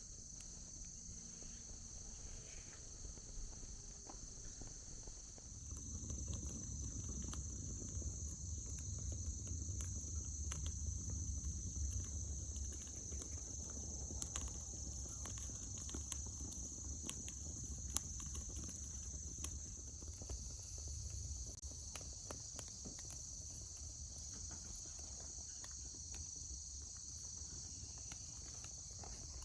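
Insects trilling steadily and high. A low rumble rises about five seconds in and fades near twenty seconds, with scattered sharp clicks over it, one louder about eighteen seconds in.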